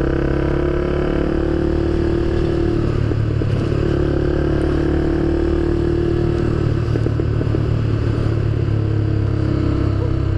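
Motorcycle engine running steadily while riding, its note wavering briefly a couple of times.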